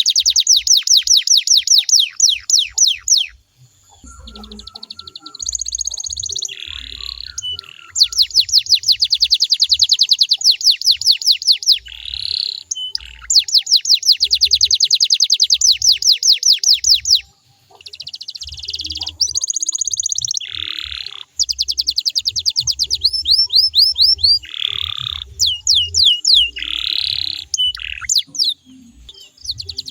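Domestic canary singing: long rapid trills of quickly repeated down-slurred notes, broken by short varied whistles and chirps between trills.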